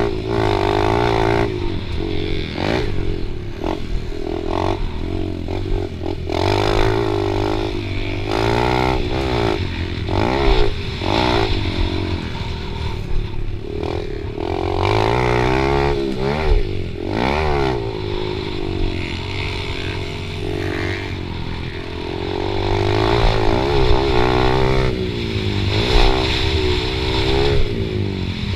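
Honda CRF110 pit bike's small single-cylinder four-stroke engine revving up and dropping back over and over as it is ridden, with scattered knocks and rattles. At times a second bike's engine can be heard over it.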